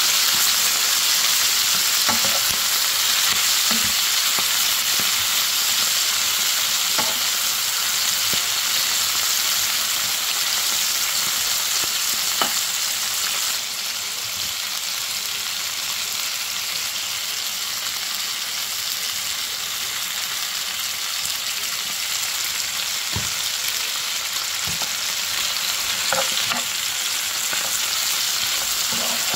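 Vienna sausages and vegetables sizzling steadily as they are stir-fried in a hot pan, with a spatula now and then clicking and scraping against the pan. The sizzle drops a little in level about halfway through.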